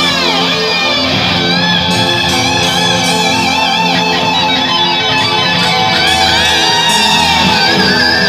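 Guitar-led music: high notes bending and wavering over steady sustained lower notes.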